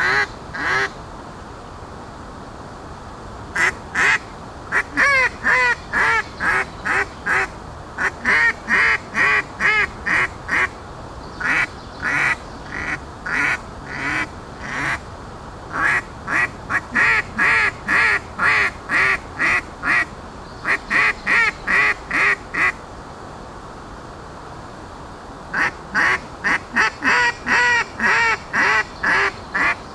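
Handcrafted duck call blown in long runs of short quacks, a few per second, with short pauses between the runs.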